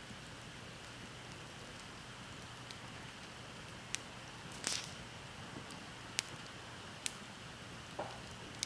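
Wood bonfire burning down and crackling: a steady faint hiss with about six sharp pops scattered through the second half.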